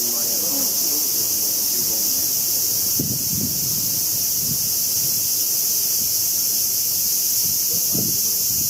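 Steady, loud, high-pitched chorus of summer insects, with faint voices of people talking in the background near the start and near the end.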